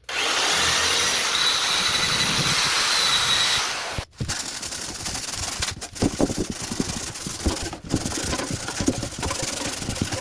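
Electric drill with a circular wire brush scouring surface rust off a rusty metal fire-pit bowl: a steady motor run with a faint high whine for the first few seconds, then, after abrupt cuts, uneven scratchy brushing against the metal.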